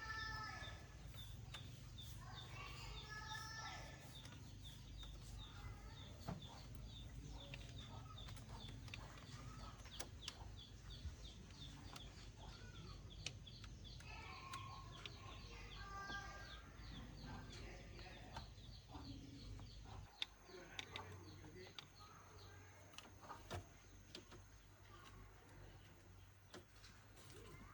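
Chickens clucking faintly in short bursts, with a fast, even ticking and a low steady hum behind them. The hum stops about two-thirds of the way through.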